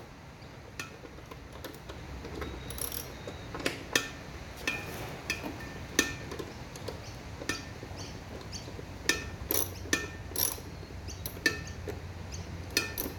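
Hand tools on a lawn mower's nut, making irregular sharp metallic clicks and clinks with a brief ring, about one or two a second, as the nut is worked loose.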